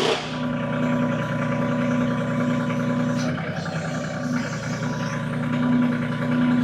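LS MT226 compact tractor's diesel engine running steadily at about 1,200 RPM while its front loader lifts a heavy pallet of concrete bags.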